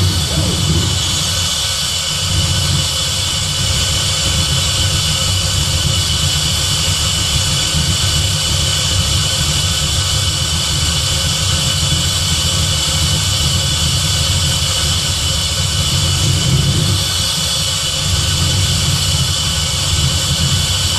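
Terminator-swapped Fox-body Mustang's supercharged 4.6 L V8 idling steadily just after start-up, with a steady high-pitched whine over the low idle, while it runs up to temperature to burp the cooling system.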